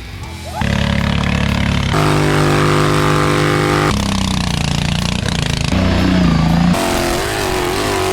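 Racing lawn tractor engines running at high revs, heard as a string of spliced clips: the engine pitch holds steady, then jumps to a new pitch every second or two. Near the end the pitch wavers up and down as the throttle is worked.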